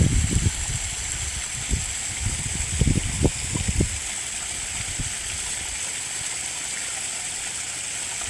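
Koi pond water running in a steady stream or small waterfall, a constant hiss, with a few irregular low thumps in the first four seconds.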